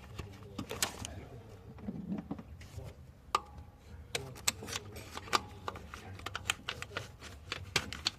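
Irregular clicks and light knocks of hand tools and parts being handled, coming thick and fast in the second half, over a low steady hum.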